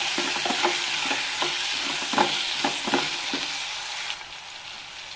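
Ivy gourds frying in coconut oil in a steel pot, sizzling while a wooden spatula stirs them in with lumps of jaggery, with scattered light knocks of the spatula against the pot. The sizzle falls away abruptly about four seconds in.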